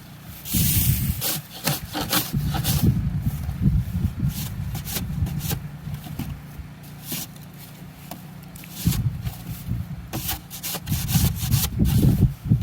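Repeated scraping and crunching in deep snow, with a car engine running underneath; the car is stuck and trying to get traction. The scraping thins out in the middle and picks up again near the end.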